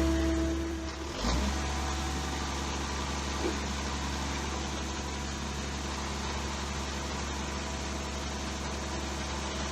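Scania truck's diesel engine idling steadily, with a short knock about a second in, after which it runs a little quieter.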